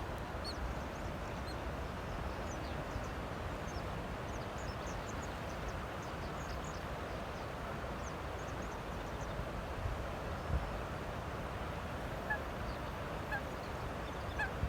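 Strong wind blowing steadily, with scattered short, faint high bird calls over it and a few clearer calls near the end.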